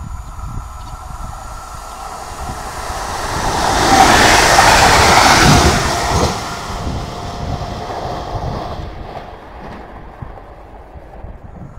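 Stadler FLIRT 3 electric multiple unit passing at speed. Its running noise builds up, peaks about four to six seconds in, and then fades as it pulls away, with a thin steady whine as it goes by.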